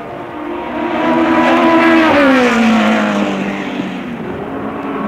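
A Formula One race car engine passing at high speed. The note swells to its loudest about two seconds in, drops in pitch as the car goes by and fades, and a second car comes up near the end.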